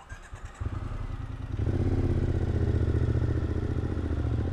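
Motorcycle engine running, with a few clicks at first, then a steady, louder note from about a second and a half in.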